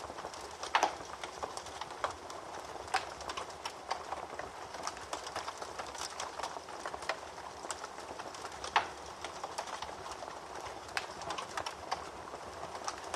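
Wood fire crackling in a fireplace: a steady soft hiss with frequent irregular pops and snaps, and a few louder snaps about a second in, around three seconds in and near nine seconds.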